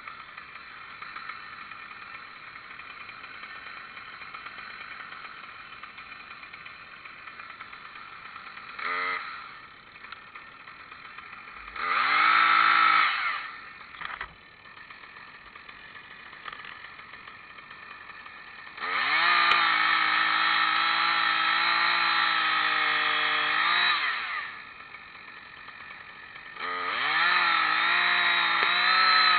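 Chainsaw engine idling, then revved in short blips about a third of the way in, and held at high revs for several seconds twice in the second half, climbing in pitch at each run-up and dropping back to idle.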